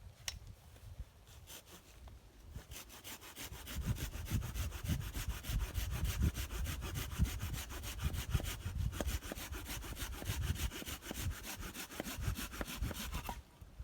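Hand saw cutting through a wooden log with fast, even back-and-forth strokes, starting about three seconds in and stopping abruptly just before the end.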